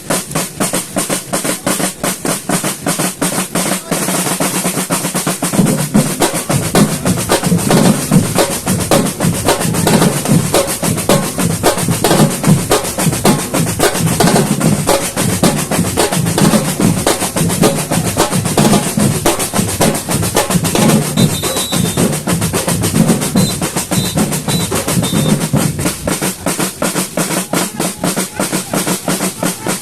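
Samba batucada percussion ensemble playing a fast, dense drum rhythm of snare-type drums, with deep bass drums coming in strongly about five seconds in and dropping back a few seconds before the end.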